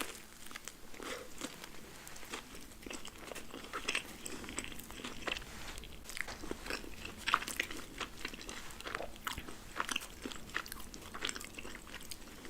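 Close-miked biting and chewing of burger and french fries, a steady run of irregular crunches and wet mouth clicks.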